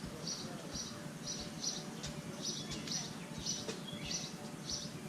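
A bird chirping over and over, short high chirps at about two a second, over a steady low background rumble.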